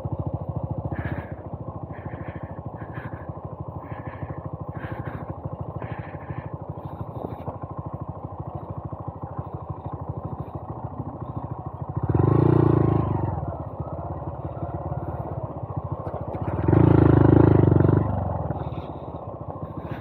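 Honda Monkey 125's single-cylinder four-stroke engine running at low speed, with two short revs, about twelve seconds in and again about seventeen seconds in.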